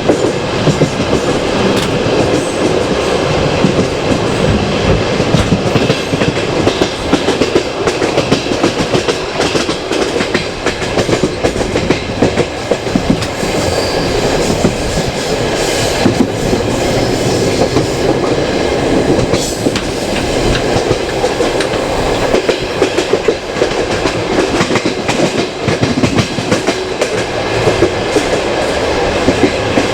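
Passenger train running at speed, its carriage wheels clattering over the rail joints.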